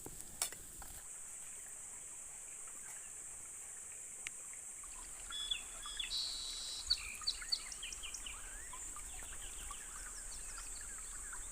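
Forest ambience: a steady high-pitched insect drone, with birds chirping in quick, short calls from about halfway through.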